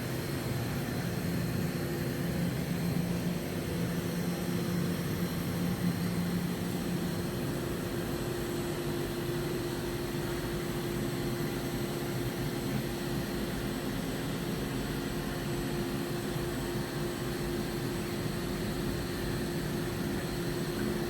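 Steady hum of a powered-up Hurco VM5i CNC vertical machining center standing idle, with its fans and electrics running and the spindle stopped, plus a few held tones, low and high.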